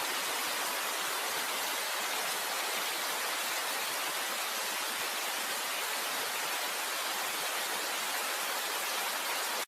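Steady rain sound effect, an even hiss of heavy rainfall that cuts off suddenly at the end.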